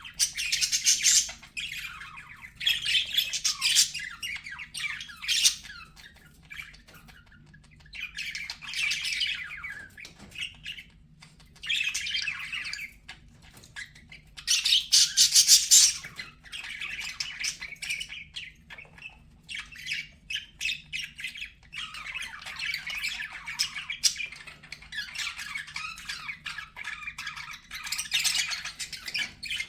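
Budgerigars chattering and warbling in bouts of a few seconds, with short gaps between them, in the scratchy mix of chirps and squawks typical of contented budgie song.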